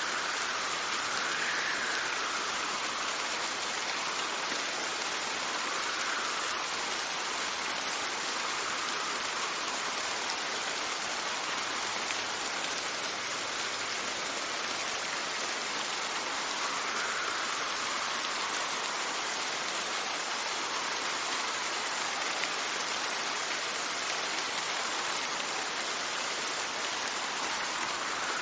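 Steady rain hissing, with wind that swells and fades in soft gusts every several seconds.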